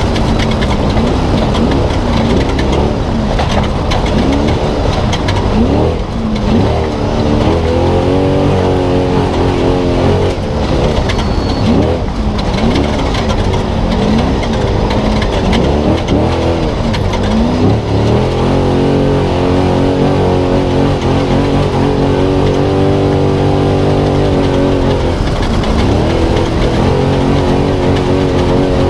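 Spec Trophy Truck's V8 engine heard from onboard at race pace, its revs repeatedly rising and falling in quick sweeps as the throttle comes on and off, with a longer steady pull about two-thirds of the way through. A rough rattling, rumbling haze of the truck over the terrain runs under it.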